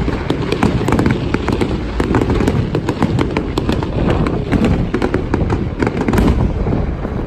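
Aerial fireworks display: a dense, rapid crackle of many small bangs over a continuous deep rumble of bursting shells.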